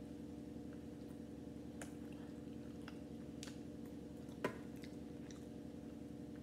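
Close-up wet chewing and squishy mouth sounds of someone eating a boiled potato soaked in buttery broth, with small scattered clicks over a steady low hum. About four and a half seconds in, a metal spoon gives one sharp clink against the glass bowl.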